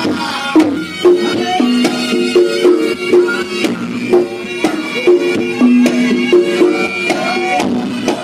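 Reog Ponorogo gamelan music: struck gongs and gong-chimes ringing in interlocking pitched patterns over a sharp, regular drum beat.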